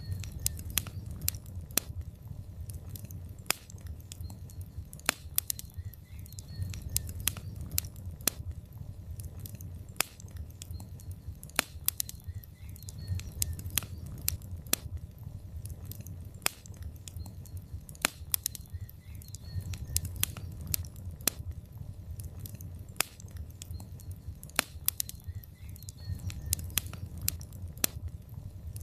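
Log fire in a fireplace crackling, with frequent sharp pops and snaps, several a second, over a low rumble of flames that swells and fades every few seconds.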